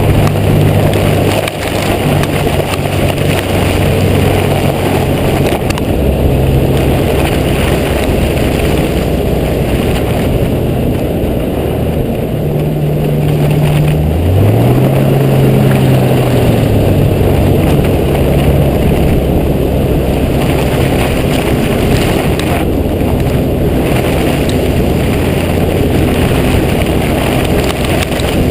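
Jeep Cherokee XJ engine running while driving, heard with road noise. The engine note shifts in pitch several times, with a short rise and fall about halfway through.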